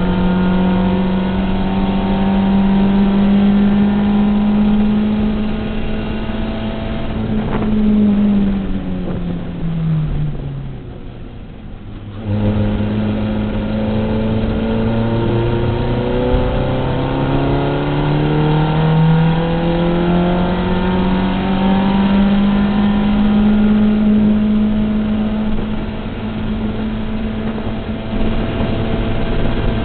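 Volkswagen race car's engine heard from inside the cabin, held at high revs, then dropping as the driver lifts off and brakes for a corner. After a short quieter lull off the throttle, the power comes back on abruptly and the revs climb steadily on the exit, staying high near the end.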